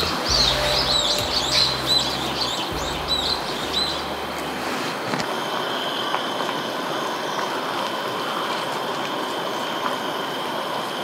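Small birds chirping in quick calls for the first four seconds or so, over a steady hiss from a canister gas stove burner heating a pot of boiling pasta water.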